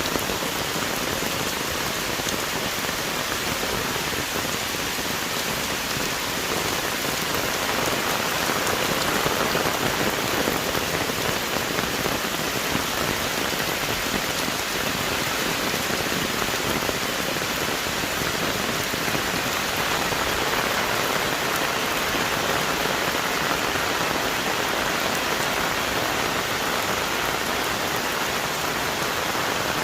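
Heavy rain falling steadily on forest trees and leaves, a dense even downpour with no let-up.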